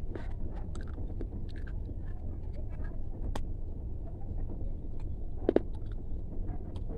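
Crunchy chewing: scattered sharp crackles and clicks over a steady low rumble, with one short higher-pitched squeak about five and a half seconds in.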